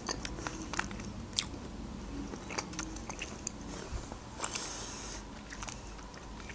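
Close-miked mouth sounds of a person chewing food, with small wet clicks and soft bites scattered through. About four and a half seconds in a short rustle is heard as a grape is pulled from the bunch.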